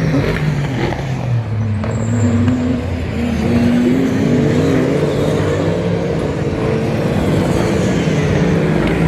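GT race car engines running hard on track, several at once, with one climbing in pitch as it accelerates about a third of the way in.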